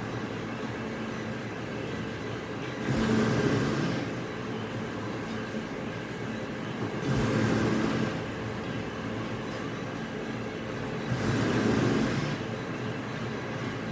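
Industrial machinery running in a repeating cycle: a steady hum broken three times, about every four seconds, by a louder rushing burst lasting a second or so.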